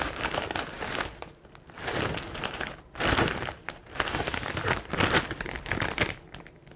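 Cereal packaging being handled: a plastic inner bag and cardboard box crinkling in several bursts, dying away near the end.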